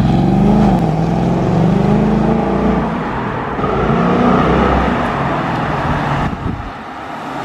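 Ford Mustang GT's V8 engine accelerating hard as the car drives off. Its pitch climbs, dips about a second in, then climbs again, and near the end the sound drops away as the car gets farther off.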